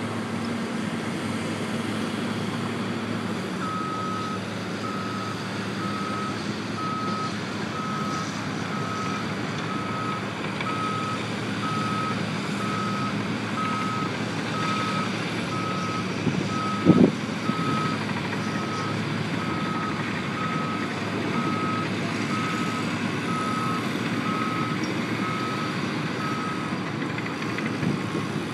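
A vehicle's reversing alarm beeping at a single pitch, repeating evenly a bit under twice a second, over a steady low engine rumble. A single loud knock is heard about two-thirds of the way through.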